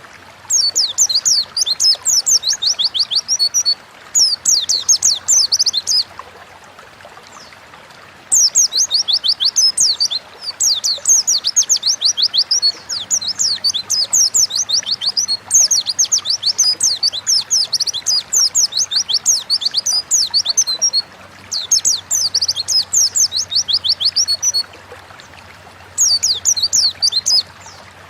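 White-eye (pleci) singing: fast, high twittering phrases of a few seconds each, broken by short pauses.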